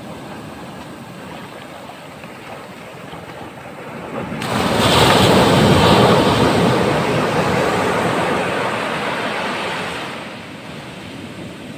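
Ocean surf washing steadily. About four and a half seconds in, a wave breaks with a loud rush that slowly fades over the next several seconds.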